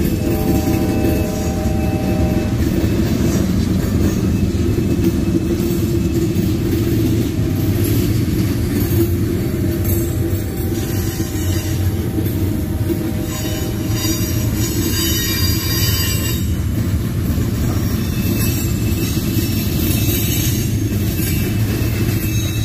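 Freight train's open-top gondola cars rolling past at steady speed: a continuous low rumble of steel wheels on rail, with wheel squeal rising briefly near the start and again in the middle.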